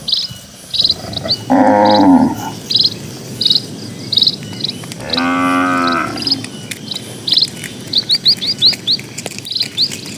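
Cow mooing twice, a short call about a second and a half in and a longer one about five seconds in. Throughout, a small bird chirps repeatedly at a high pitch, with a quick run of chirps near the end.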